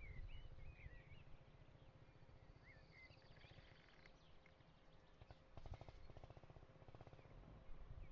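Faint bird chirps, a few quick twisting notes in the first second and again about three seconds in, over a low rumble of wind or handling noise on the microphone.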